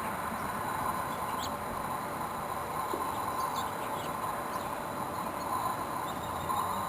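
Steady hum of many bees foraging on a flowering winterberry holly bush, with a few brief bird chirps over it.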